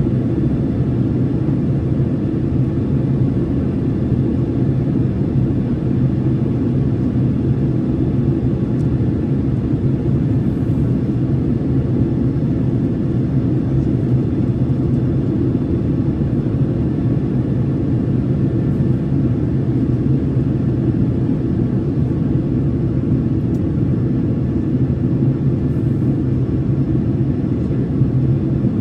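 Steady low rumble of an airliner in flight, heard from inside the cabin: the even drone of engines and rushing air.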